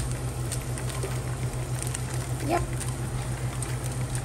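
Onions and spices frying in a pot: a faint crackling sizzle over a steady low hum.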